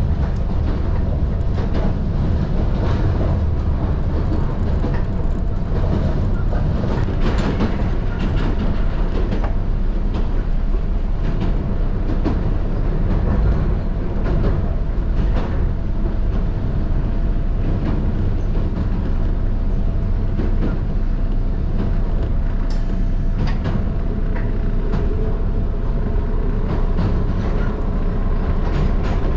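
Running noise heard from inside a Toyama Chiho Railway local electric train under way: a steady low rumble of wheels on rail with irregular clicks of the rail joints and a faint steady whine. A higher whine joins near the end.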